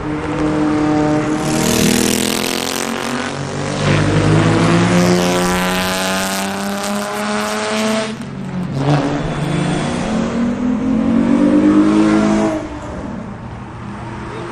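A car engine and exhaust under hard acceleration, the revs climbing steadily for several seconds. The sound breaks off sharply about eight seconds in, then climbs again until it cuts off suddenly near the end.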